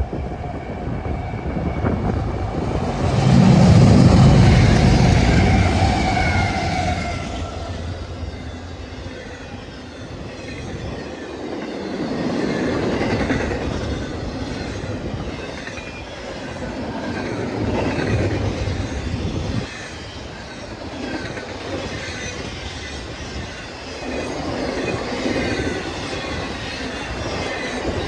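A train passing close by: a heavy low rumble with some steady tones is loudest from about three to seven seconds in. Then the rail cars roll past with continuous wheel noise that swells and fades every few seconds.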